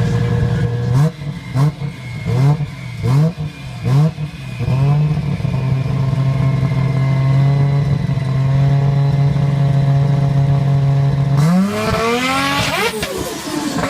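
Car engine being revved: a run of about six short throttle blips, each a quick rise in pitch, then the engine held at a steady note, then one long hard rev that climbs to high rpm about twelve seconds in and drops back near the end.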